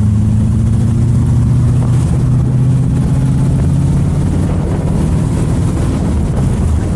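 GM LS7 7.0-litre V8 of an AK Cobra replica running steadily while driving, a low drone whose pitch drifts gently, with wind rush over it.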